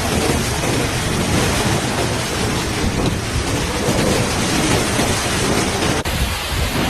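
Heavy rain pouring in a storm, a dense steady hiss over a low rumble; the sound changes abruptly about six seconds in.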